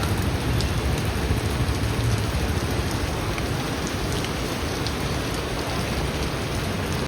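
Heavy rain pouring down and pattering on surfaces, a steady dense hiss with a few scattered drip clicks.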